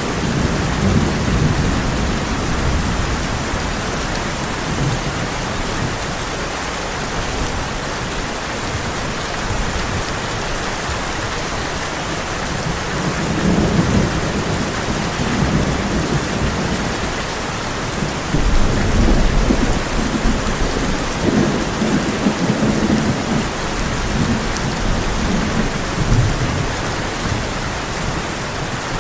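Heavy rain drumming steadily on a tin roof, with rolling thunder rumbling low several times: around the middle, a longer stretch past two-thirds of the way, and once more near the end.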